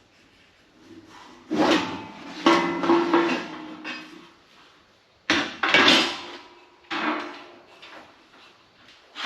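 Metal parts of a bench belt and disc sander being handled and set down: a string of sharp knocks and clunks, some ringing briefly, with quieter rattling between them.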